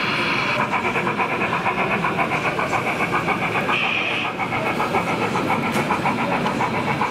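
Model train running, with a fast, even rhythmic beat of about seven a second that starts about half a second in.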